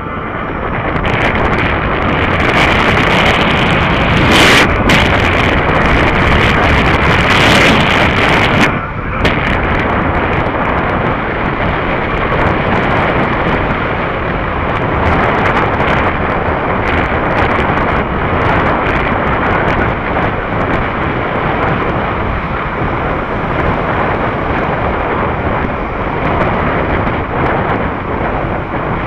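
Heavy wind noise buffeting the microphone of a rider moving at speed, over steady road and vehicle noise, strongest in the first several seconds.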